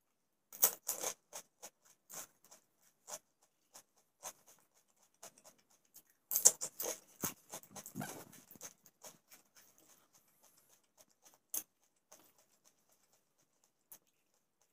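Crisp golgappa (pani puri) shells being bitten and chewed close to the mic. Rapid crackling crunches come in two clusters, starting about half a second in and again about six seconds in, with a few scattered smaller crunches between.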